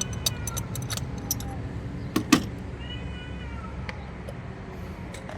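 Rapid metallic clicking of a ratchet wrench working a spark plug loose, with a louder knock a little after two seconds and a long, slightly falling squeal about three seconds in, over a steady low hum.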